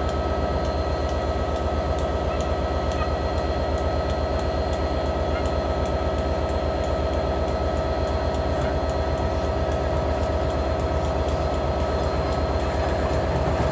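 Steady mechanical hum and rumble of a train on the line close by, with a constant tone and faint regular ticking about three times a second.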